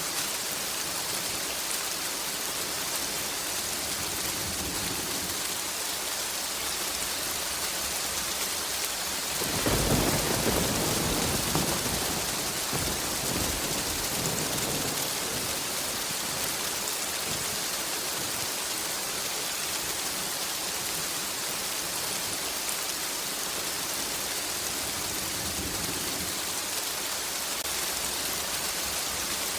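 Steady heavy rain falling, with a low roll of thunder that breaks in about a third of the way through and rumbles away over a few seconds.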